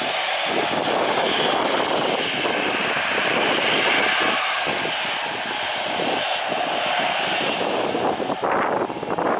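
Jet airliner's engines passing close overhead, a loud, steady rushing roar, with irregular gusts of wind buffeting the microphone.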